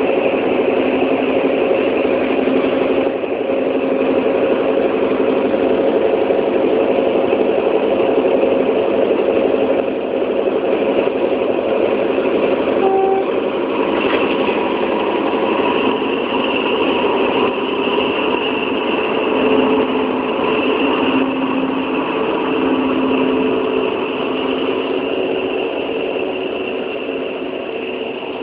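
Train running steadily, a continuous loud rumble and hiss with a short higher tone about thirteen seconds in.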